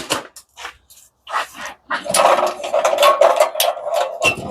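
Clatter of scrap parts being handled and sorted during a machine teardown: a few separate knocks, then about two seconds in a dense, continuous rattling that stops just before the end.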